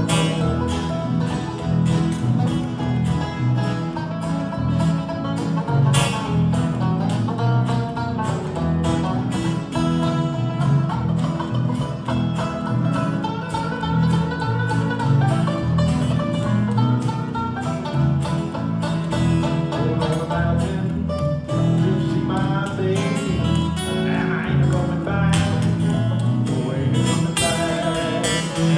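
Live bluegrass band playing an instrumental passage: picked acoustic guitars and banjo over a steady upright bass beat.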